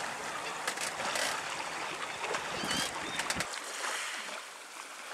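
Water lapping and splashing, with a few short sharp clicks; a low rumble underneath drops out about three and a half seconds in.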